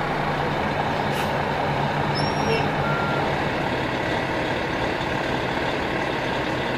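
Fire truck's diesel engine running steadily at the scene, a continuous low rumble under a dense hiss. A few faint short high chirps sound about two seconds in.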